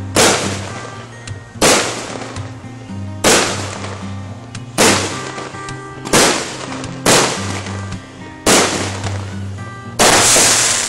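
Fireworks going off: a series of eight sharp bangs from aerial bursts, about a second to a second and a half apart, the last one near the end longer and louder. Background music with held notes plays underneath.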